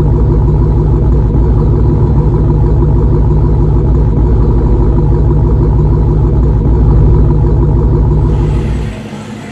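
Dodge Hellcat's supercharged 6.2-litre V8 running loud and steady after a tune-up, dropping away abruptly about nine seconds in.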